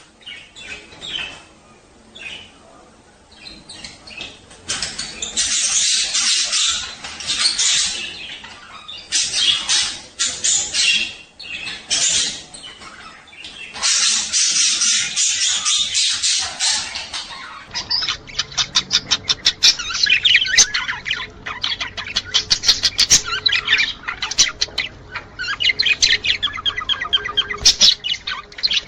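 Budgerigars chattering and warbling in dense runs of high chirps. About two-thirds of the way in, the sound changes to fast runs of sharp, evenly repeated chirps over a faint steady hum.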